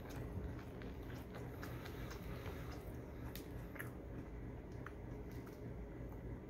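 Close-up eating sounds: a person chewing a mouthful of breakfast sandwich, with scattered small clicks and ticks as the sandwich and fries are handled, over a steady low hum.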